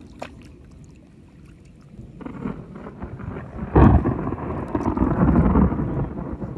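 Thunder: a quiet low rumble that builds from about two seconds in, breaks into a sudden loud peal near the middle, and rolls on loudly.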